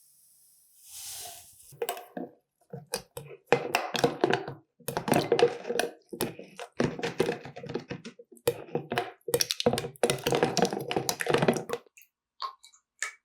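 Hands working soap-making utensils and containers, making quick irregular runs of clicking, tapping and knocking that stop about twelve seconds in.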